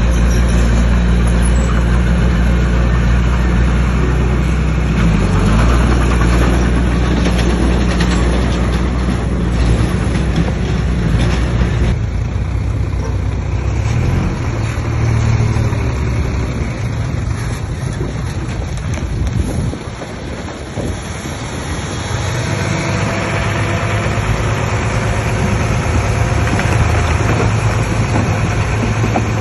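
Bulldozer's diesel engine running under load, its deep steady note changing about twelve seconds in, dipping briefly about two-thirds of the way through, then picking up again.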